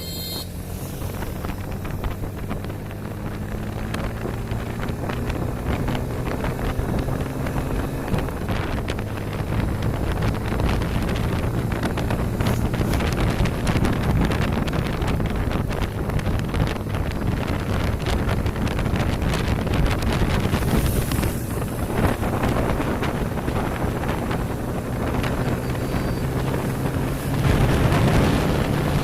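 Motorcycle engine running at riding speed, with wind buffeting the microphone. The engine note rises slightly in the first few seconds and gets louder near the end.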